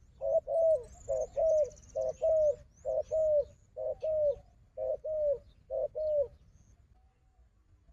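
Spotted dove cooing: a run of two-part coos, a short note followed by a longer falling one, about one a second, stopping a little after six seconds in. Faint high chirps of small birds sound over the first few seconds.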